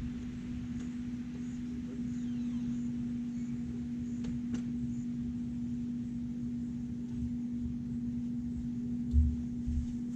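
A steady low hum with a rumble beneath it, and a few dull low thumps near the end.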